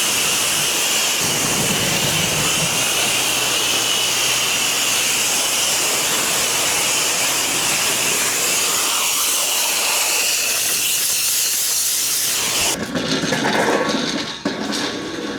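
Pressure washer spray hissing steadily as water blasts a surface, cutting off suddenly near the end and giving way to a different, uneven sound.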